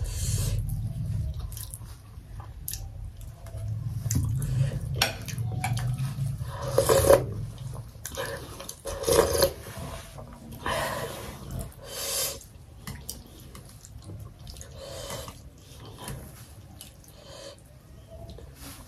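Close-miked eating sounds: wet chewing and lip-smacking of soft momo dumplings in tomato achar, in irregular bursts, the loudest about seven and nine seconds in.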